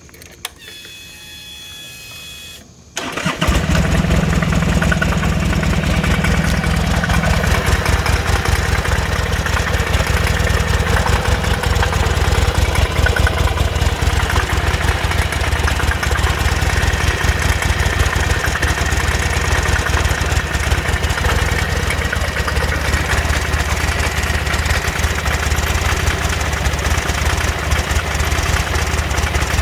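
Buell Ulysses XB12X's air-cooled V-twin: a click and a brief whine, then it starts about three seconds in and idles steadily, closely pulsed. It has a knocking sound that the owner is worried by after servicing nearly everything.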